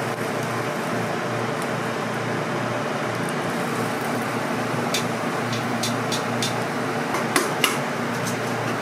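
Steady background hum and noise, with a few sharp light clicks or clatters from about five seconds in, the two loudest close together near the end.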